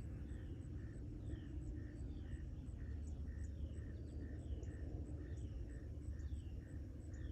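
Night chorus of insects, with evenly repeating high chirps and short falling calls several times a second, over a steady low rumble.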